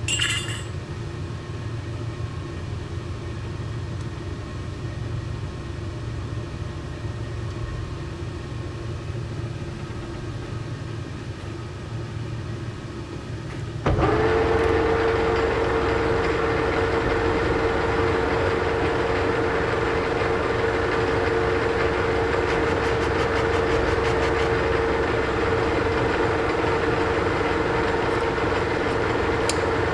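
Old Monarch lathe running steadily. About halfway through, it suddenly gets louder, with a strong steady whine over more noise that holds to the end.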